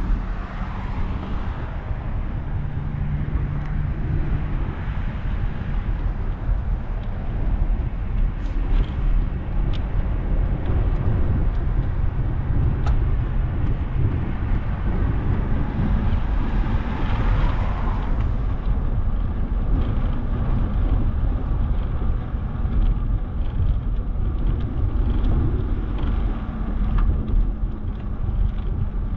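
Street noise heard while riding a bicycle: a steady low rumble throughout, with a car passing that swells and fades about 17 seconds in.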